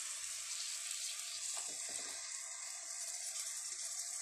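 Spice masala frying in oil in a metal kadai: a steady, even sizzle, with a few faint strokes from the steel spoon about a second and a half in.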